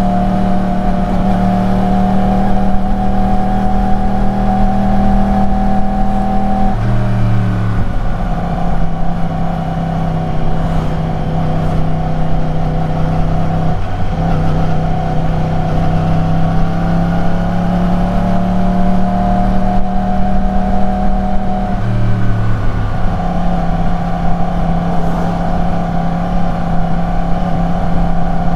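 Yamaha YZF-R1's crossplane inline-four engine and exhaust running at steady cruising revs while being ridden. The pitch changes abruptly about seven seconds in and again after about twenty-two seconds.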